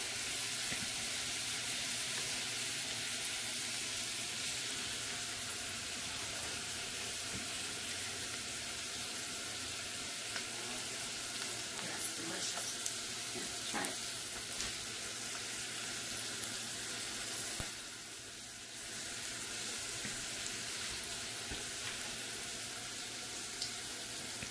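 Food sizzling steadily in a frying pan, a continuous hiss, with a few light clinks of a utensil and a brief drop in the sizzle about three-quarters of the way through.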